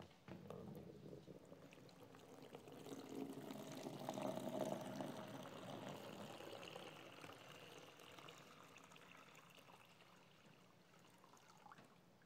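Water being poured into a baptismal font, faint. It swells to its loudest about four to five seconds in, then tapers away.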